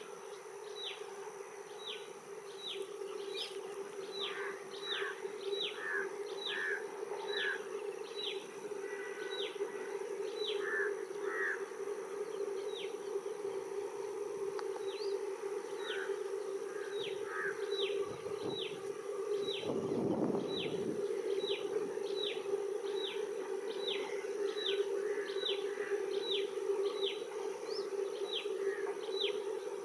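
Outdoor ambience of a bird calling over and over in short, quick falling chirps, over a steady buzzing drone like insects. A soft low rush passes about two-thirds of the way through.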